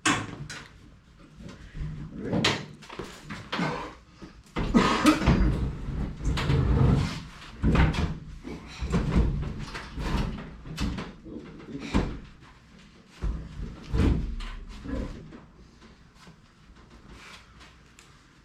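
Irregular knocks, thumps and clattering from hands-on work on a gas furnace installation. The noise is busiest and loudest in the middle and dies down over the last few seconds.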